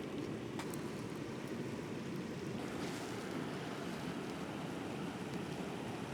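A small alpine stream rushing steadily over rocks, with wind blowing through the campsite.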